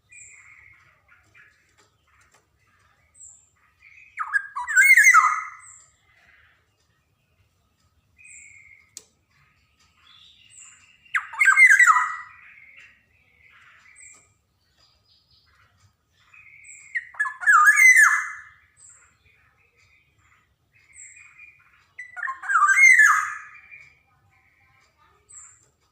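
Black-naped oriole (kepodang emas) giving four loud calls about six seconds apart, each lasting about a second and a half, with softer short notes between them.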